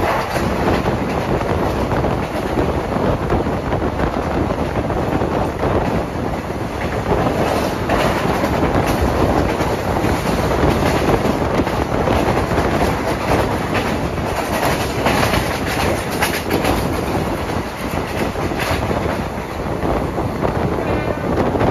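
Express train heard from on board, running at speed: a steady rumble of steel wheels on rail, with clickety-clack clusters as the wheels cross rail joints, once about a third of the way in and again about two-thirds in.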